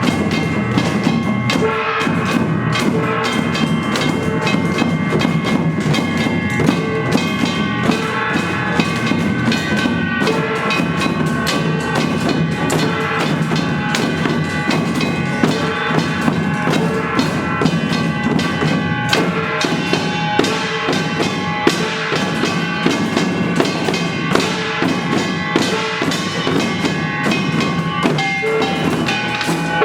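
Samulnori percussion played by young children: janggu and buk drums beaten in a fast, steady rhythm under ringing kkwaenggwari and jing gongs.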